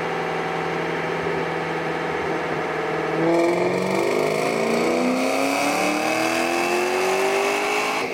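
Supercharged 2006 Ford Mustang GT's 4.6-litre V8 on a chassis dyno: it runs at a steady speed, then about three seconds in goes to full throttle and the revs climb steadily in a wide-open dyno pull toward about 6100 rpm, starting to fall off right at the end.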